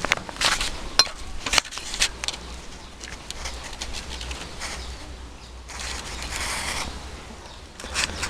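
Small parts being handled: several clicks and taps, then a rubbing scrape lasting about a second.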